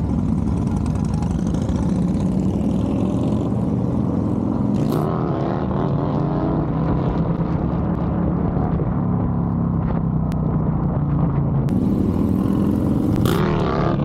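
Motorcycle engine running while riding, with wind rushing over the microphone; the engine note dips and rises about five seconds in and again near the end.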